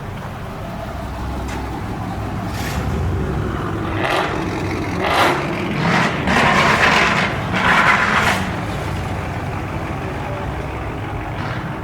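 Motor vehicle running with a steady low rumble, with several louder bursts of noise between about four and eight and a half seconds in.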